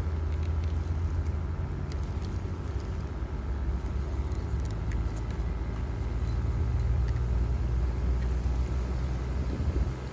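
A motor vehicle's engine running steadily while on the move, a continuous low hum with a few faint clicks and rattles. It eases off slightly near the end.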